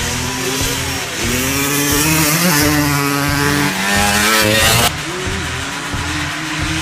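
Dirt bike engines running at race pace, the pitch climbing as they rev up through the middle of the stretch. Near five seconds in the sound changes abruptly to a lower, steadier engine note with less hiss.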